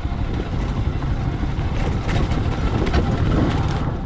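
Dual-sport motorcycle engine running, heard through a helmet or bike-mounted camera with rumbling noise and occasional light knocks.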